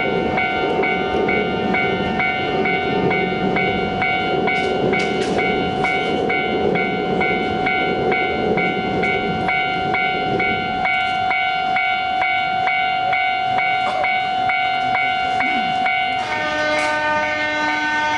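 Railway level-crossing alarm ringing in even, rapid strokes, a little over two a second, over the rumble of a passing train. About sixteen seconds in, the striking stops and a sustained horn-like tone takes over.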